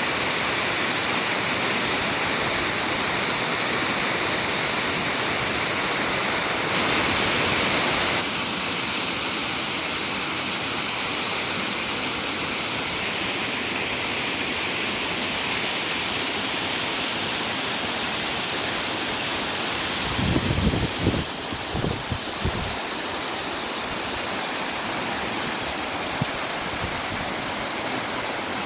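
Waterfall rushing: a steady, even wash of falling water. About two-thirds of the way through, a brief low rumble on the microphone.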